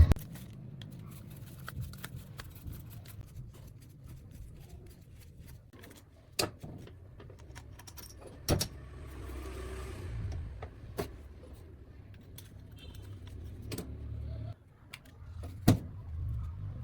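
A few sharp clicks and knocks, like metal parts being handled, the loudest about six and a half seconds in, at eight and a half seconds and near the end, over a low steady hum.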